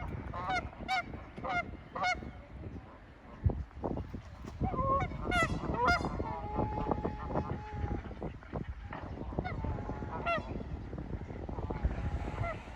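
Geese honking: four honks about half a second apart, then a flurry of calls in the middle with one longer, drawn-out call, and a few more honks near the end, over a low rumble.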